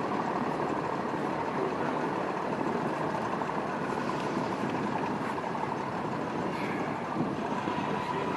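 Boat engine running steadily, with a faint steady whine.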